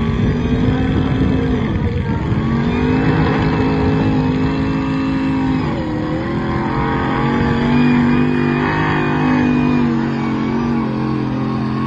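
Ram TRX's supercharged 6.2-litre Hellcat V8 running hard under load while pulling the sled, at a high, steady engine pitch. The pitch dips briefly about two seconds in and again about six seconds in.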